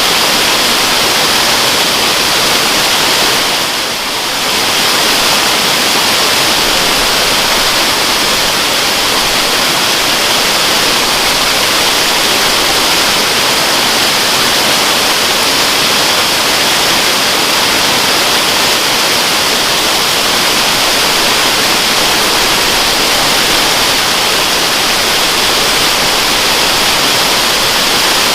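Waterfall: a steady, even noise of falling water, dipping briefly about four seconds in.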